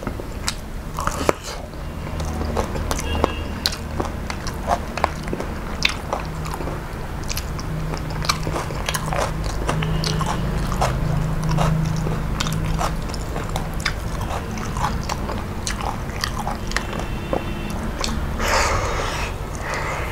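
Close-miked chewing and biting of chicken curry and basmati rice eaten by hand, full of sharp mouth clicks and smacks over a steady low hum. A short, louder noisy burst comes near the end.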